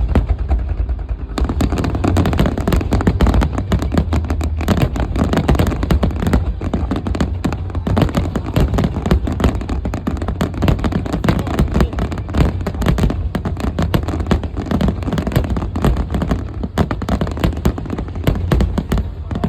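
Finale barrage of aerial fireworks: shells bursting in quick succession, many sharp bangs a second over a continuous low rumble, the crackle growing fuller about a second in.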